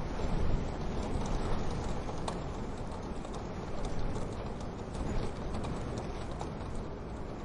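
Wood fire crackling, with scattered sharp pops, one standing out a couple of seconds in, over a steady low rumble.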